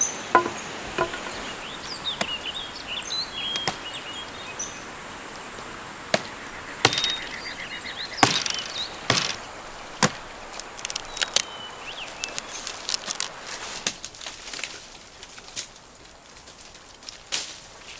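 Axe chopping into tree branches: single sharp blows at irregular intervals, a second or two apart at first and coming quicker in the second half, over a steady background of insects.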